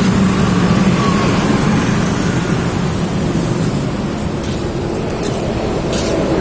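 Fuel-injected 1980 Honda Accord engine running steadily, a loud even drone with a low hum.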